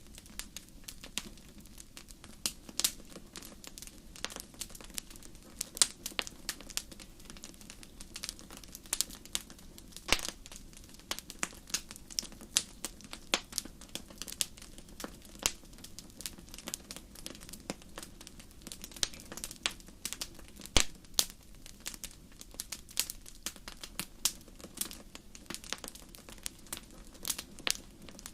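Wood fire crackling in a fireplace: irregular sharp pops and snaps over a steady low rush of the flames, with a few louder pops.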